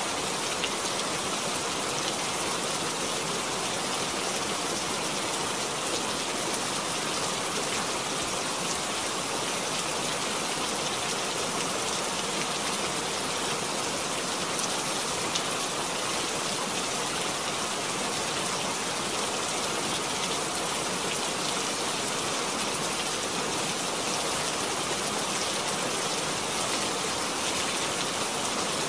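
Steady rain: an even, unbroken hiss with faint ticks of single drops through it.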